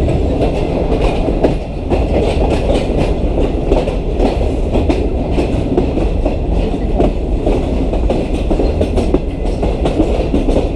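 Pakistan Railways Green Line Express passenger train running, with a loud steady rumble and the wheels clattering irregularly over the rail joints.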